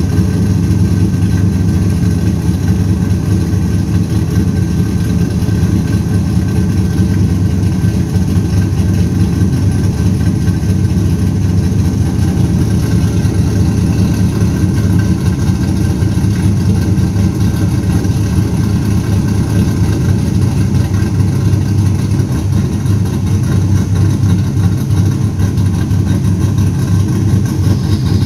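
2002 Pontiac Trans Am WS6's 5.7-litre LS1 V8 idling steadily while it warms up after a cold start, with no knocking.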